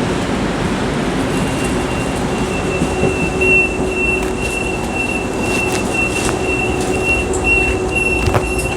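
Calgary C-Train light-rail train running on the rails, with a high, steady wheel squeal setting in about a second and a half in, over a lower hum and a few clicks.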